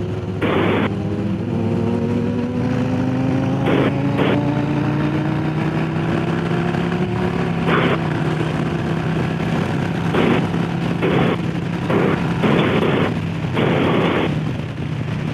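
Harley-Davidson Low Rider S's Milwaukee-Eight V-twin engine running under way, its pitch rising slowly for the first several seconds as the bike gains speed, then holding steady. Repeated short gusts of wind buffet the microphone throughout.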